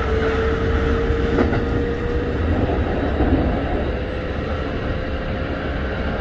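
Keikyu 1500-series field-chopper electric train running, heard from inside the car: a steady low rumble of wheels on track with a whine from the running gear that rises slightly over the first couple of seconds and then holds steady. One brief click about a second and a half in.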